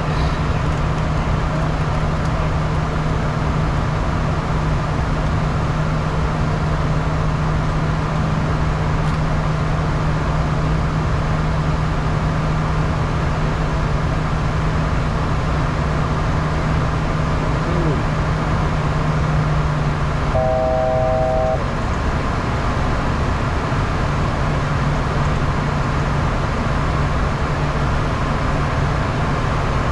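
Steady in-flight noise of a Bombardier Challenger 350 jet in its climb: an even rush of airflow over a constant low hum. About twenty seconds in, a short electronic tone sounds for about a second, and the hum fades for a few seconds before it returns.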